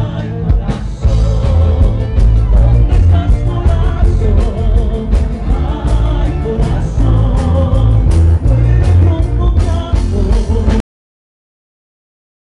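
A live band playing loud rock-flavoured music with a heavy bass, which cuts off abruptly about eleven seconds in to dead silence.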